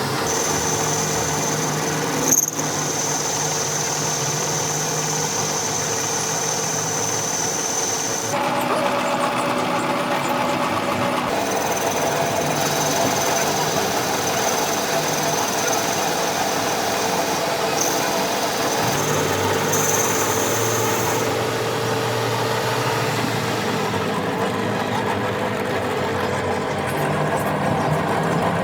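Workshop machinery running steadily with a high whine that breaks off and changes several times, and one sharp click about two seconds in.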